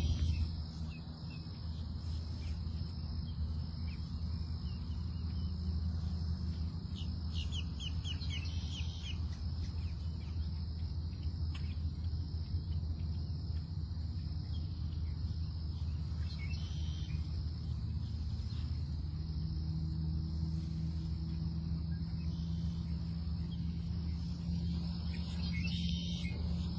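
Outdoor ambience: a steady high insect drone with scattered short bird chirps, over a steady low hum.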